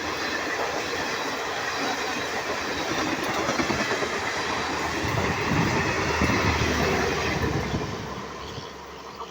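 Indian train running on the rails, loudest a little past the middle and then fading away near the end.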